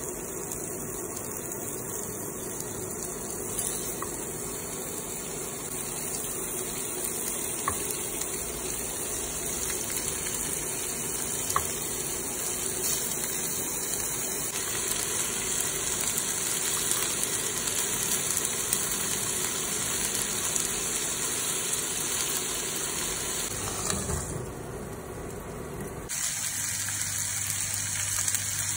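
Pork-belly-wrapped asparagus sizzling in a non-stick frying pan: a steady frying hiss with a few small pops. It drops away briefly near the end, then comes back.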